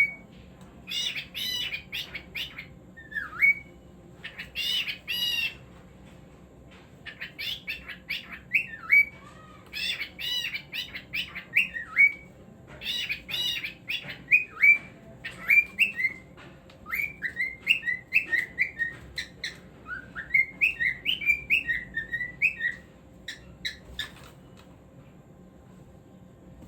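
Cockatiel singing and chattering: bouts of harsh, scratchy notes mixed with runs of short upward-sliding whistles, with brief pauses between bouts.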